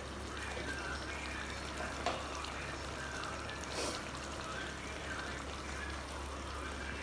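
Butter chicken gravy sizzling and crackling in a clay pot as it cooks down dry, over a steady low hum, with a couple of sharp clicks.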